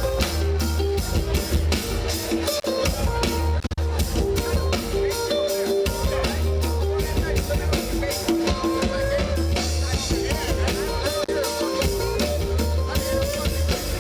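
Roots reggae band playing live in an instrumental passage without vocals, driven by a drum kit and a heavy, pulsing bass line, with guitar on top.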